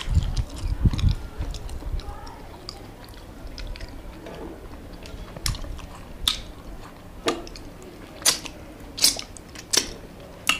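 Close-up chewing of rice and chicken eaten by hand, with low thumps at the start and then a run of sharp mouth smacks about a second apart from about five seconds in.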